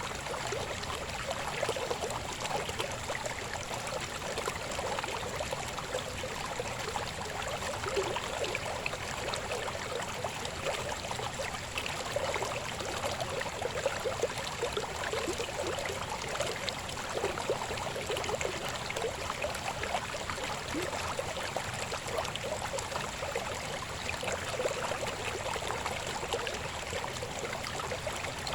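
A shallow stream babbling steadily over rocks: a dense, continuous patter of small splashes and gurgles.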